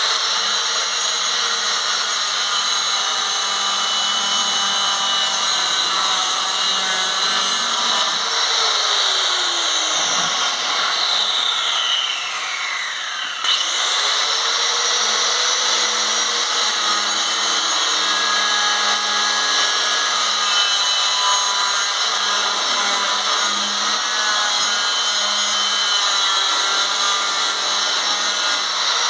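Power tool cutting a plastic bucket, running steadily. Its pitch falls as it slows about a third of the way in, then it picks back up to speed and keeps cutting.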